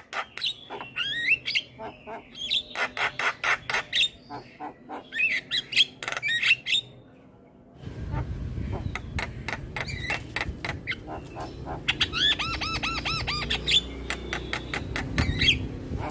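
Javan myna singing: fast runs of sharp clicks and chattering notes mixed with whistled glides. It breaks off briefly about seven seconds in, then resumes over a louder low rumble with a run of quick repeated arched whistles.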